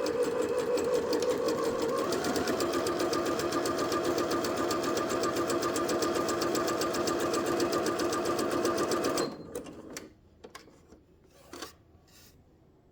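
Janome 5100 computerised sewing machine sewing a zigzag stitch at speed, its motor hum and rapid needle strokes steady, changing pitch about two seconds in, then stopping abruptly about nine seconds in. A few faint clicks follow.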